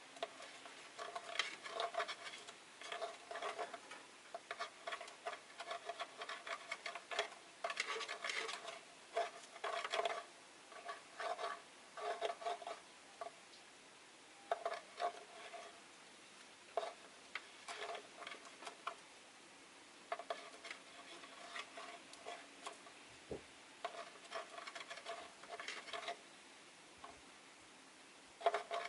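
Rosy-faced lovebirds chirping: rapid clusters of short, high calls, on and off with brief pauses.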